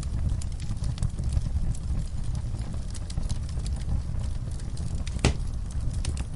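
Wood fire crackling in a fireplace: a steady low rumble of burning with scattered sharp pops and crackles, one louder pop about five seconds in.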